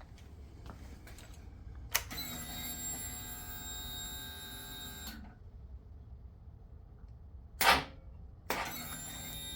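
A sharp click followed by a steady mechanical whine lasting about three seconds, then a short, loud rushing burst, then another click and a second whine near the end.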